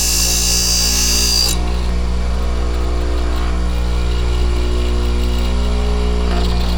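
Metal lathe running with a steady motor hum. For about the first second and a half a high-pitched cutting sound comes from the tool working the steel part, then it stops and only the running machine is heard.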